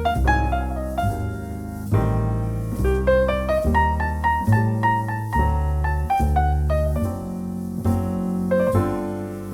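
Jazz piano playing a slow ballad: sustained low left-hand chords change about once a second under a melody of single notes and short runs in the right hand.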